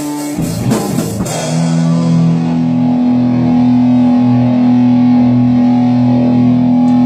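Rock music with electric guitar and drums: a few drum and cymbal hits in the first second or so, then a single guitar chord held and ringing steadily.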